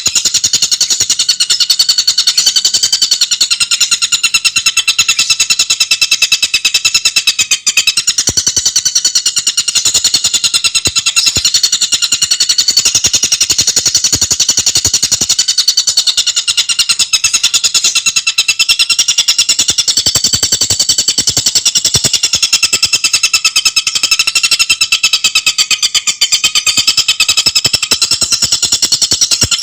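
Tengkek buto songbird singing a fast, unbroken trill of rapidly repeated high notes, with the pitch wavering slightly up and down.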